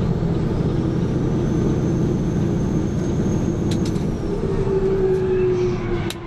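A motor vehicle running steadily, with a low engine drone and road noise.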